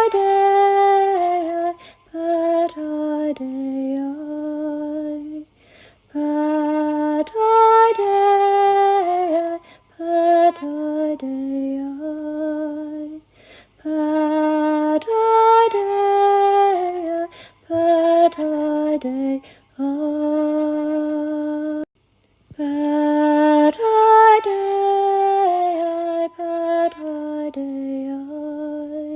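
A woman's solo voice singing a slow, wordless chant-like melody of long held and gliding notes. The same phrase comes round four times, with short breaths between.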